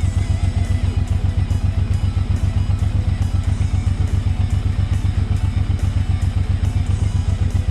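V-twin cruiser motorcycle engine running steadily with a fast, even low pulse, under background music with a steady beat.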